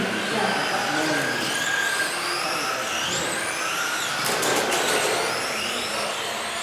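Several electric radio-controlled racing trucks lapping together, their motors and gears whining in overlapping pitches that rise and fall with throttle. A few sharp clicks come about four seconds in.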